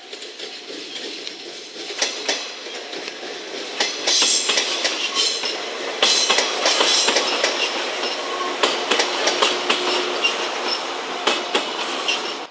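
JR West 115-series three-car electric train passing, its wheels clattering irregularly over rail joints and points. The sound grows louder from about four seconds in as the cars go by.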